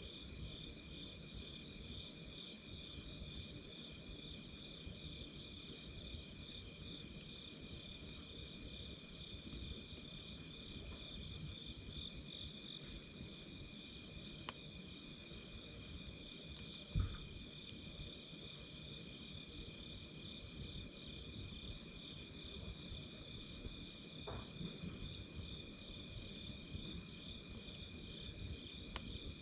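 Campfire burning with a low rumbling hiss and occasional sharp crackles, one loud pop about halfway through. A steady, high-pitched pulsing trill of insects runs over it.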